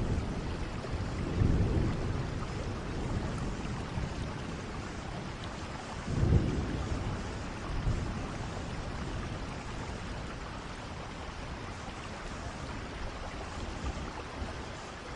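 Steady rain with rolling thunder: a low rumble about a second and a half in and a louder one about six seconds in, the storm dying down toward the end.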